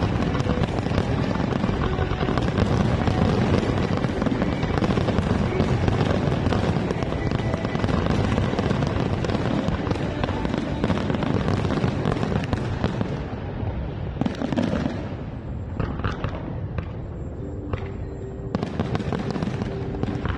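Aerial fireworks display: a dense, continuous barrage of shell bursts and crackling that thins out after about thirteen seconds into separate bangs.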